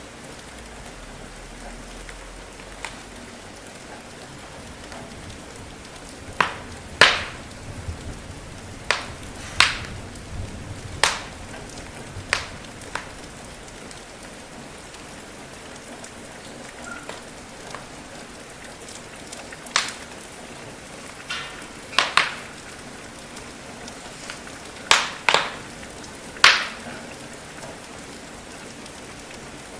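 Steady rain, with about a dozen sharp, irregular pops from a crackling wood fire standing out above it.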